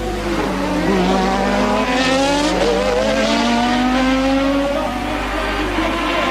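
Formula One racing car engines on track, one accelerating with its pitch rising steadily for about four seconds before dropping away.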